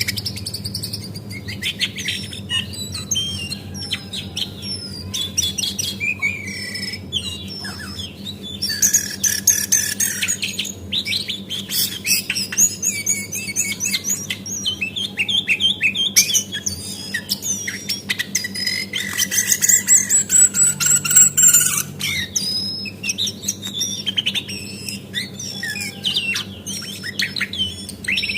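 Female cingcoang (shortwing) singing a fast, varied run of chirps, whistles and rattling trills, with a steady low hum underneath.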